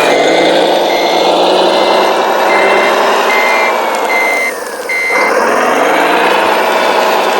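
1:14-scale RC model construction vehicle reversing, its reversing beeper sounding a steady beep about every 0.8 s over the running of its drive. Around five seconds in the drive's pitch falls away as it slows to a stop and the beeping ends, then the pitch rises again as it moves off.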